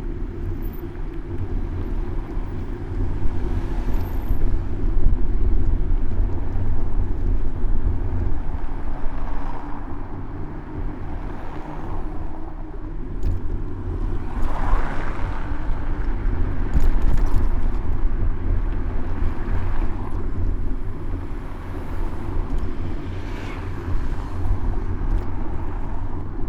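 City road traffic heard from a moving bicycle: a steady low rumble with motor vehicles passing, their noise swelling and fading several times, the loudest a little past halfway.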